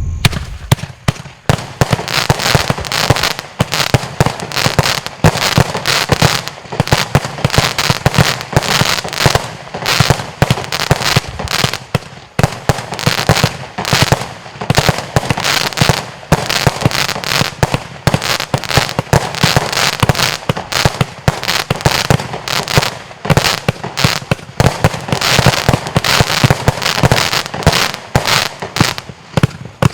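Lesli "Tribute To Tradition" firework going off in a dense, rapid series of loud bangs, several a second, with no let-up.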